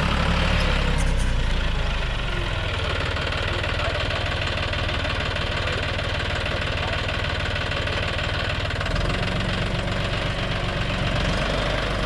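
John Deere 5065E tractor's diesel engine running steadily. It eases off about two seconds in and picks up again around nine seconds.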